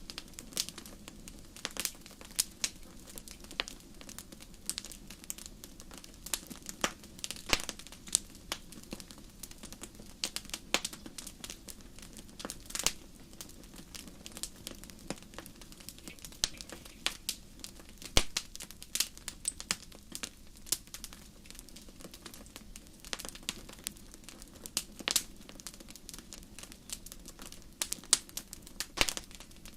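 Wood fire in a fireplace crackling, with many irregular sharp pops and snaps over a low steady hiss.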